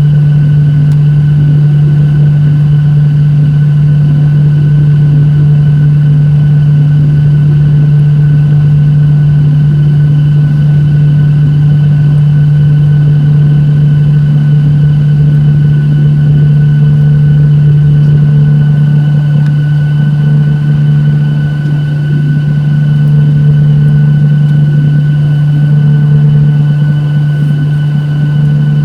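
Boeing 737-800 engines heard from inside the passenger cabin: a loud, steady deep drone with a faint steady high whine above it, unchanging throughout.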